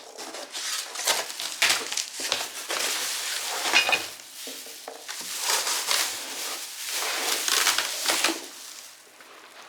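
Packaging of a boxed clothes rack being handled and unpacked: dense crinkling and rustling with sharp crackles and light knocks, easing off near the end.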